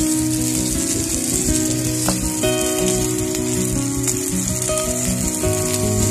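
Small chunks of food frying in hot oil in a shallow pan, sizzling steadily, under background music of held notes that change pitch every second or so.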